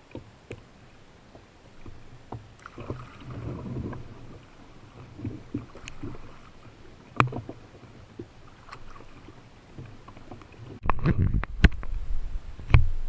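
Canoe being paddled: water swishes from paddle strokes and scattered sharp knocks on the hull, with a run of louder knocks and thumps near the end.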